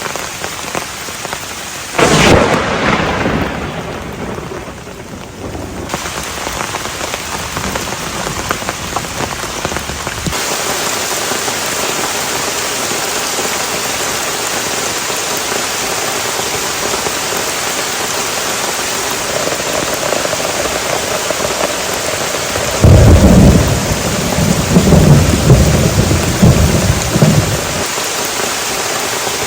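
Steady heavy rain falling, growing a little louder about ten seconds in. A sharp clap of thunder comes about two seconds in and dies away over a few seconds, and a long low rumble of thunder rolls near the end.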